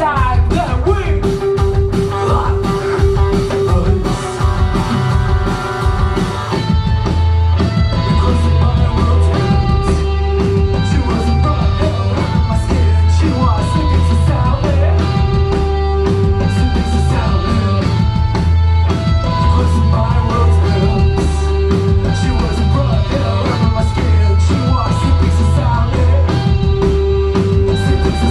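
Post-punk band playing live, an instrumental passage of drums, bass guitar and repeating guitar or synth lines with no singing. The music grows fuller about six seconds in.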